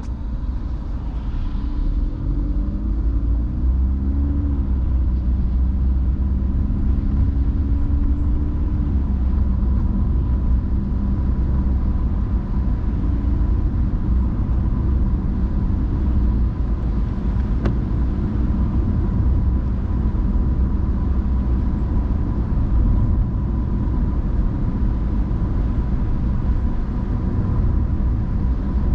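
Car driving with a steady low road and engine rumble. The engine note rises as it speeds up between about two and nine seconds in. A faint, thin, steady whine runs underneath.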